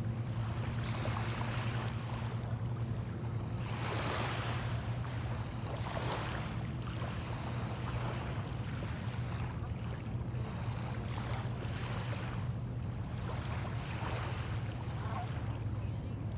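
Small bay waves washing in and out on the shore, in several swells, over a steady low drone that runs throughout.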